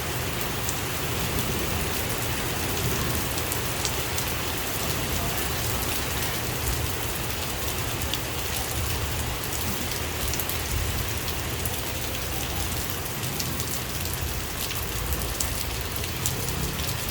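Torrential rain pouring down steadily, with sharp ticks of drops hitting a hard surface scattered throughout.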